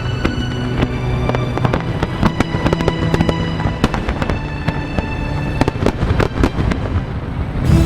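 Fireworks going off in rapid succession, many sharp bangs and crackles close together, over music with sustained chords.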